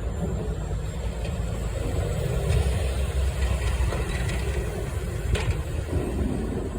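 Snowplow truck's engine running as it comes along the street, a steady low rumble, with a brief knock about five seconds in.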